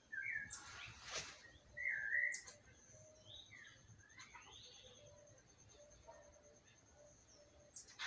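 Birds calling in the garden trees, which the uploader presents as hummingbirds singing. The calls are short warbled chirps, the loudest about two seconds in, then a few rising and falling whistled glides, with a few very thin, very high squeaks near the start and near the end.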